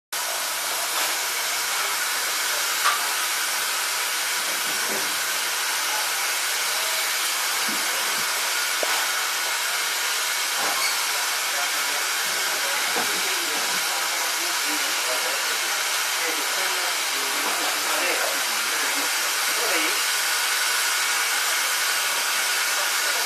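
Steam locomotive hissing steam steadily.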